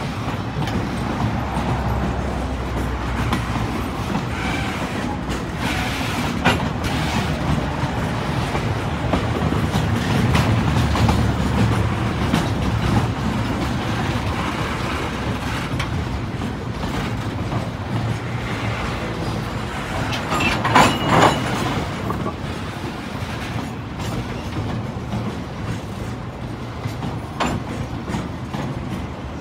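Loaded freight flatcars rolling past during station shunting: a steady rumble of wheels on rail with occasional clicks over the rail joints, and a brief louder squeal about two-thirds of the way through.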